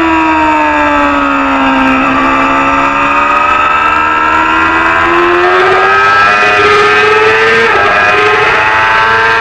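Small-displacement Supersport 300 racing motorcycle engine at high revs. Its pitch falls for about two seconds as it slows, then climbs steadily under acceleration, with a quick dip about eight seconds in at an upshift before rising again.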